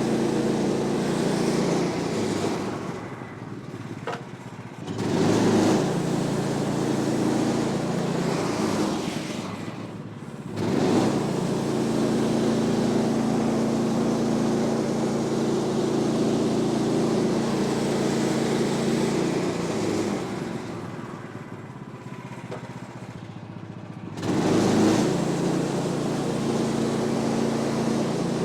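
Gasoline engine of a Woodland Mills HM126 portable bandsaw sawmill running steadily under throttle while sawing walnut. It falls back three times, briefly a few seconds in, again near the middle, and for about four seconds near the end, and each time it picks up again sharply.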